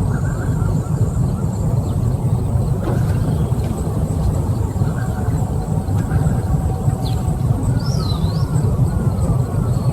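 Steady low rumble of outdoor ambience, with a couple of faint bird chirps about seven to eight seconds in.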